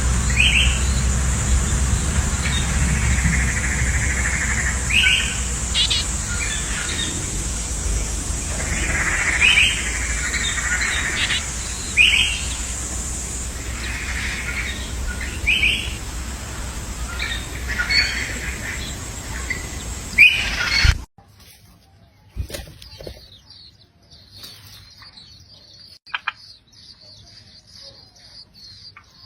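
Birds chirping: short calls every second or two over steady outdoor noise and a constant high whine. About two-thirds of the way through, the sound cuts abruptly to a quieter scene with fast, high-pitched twittering and a few light clicks.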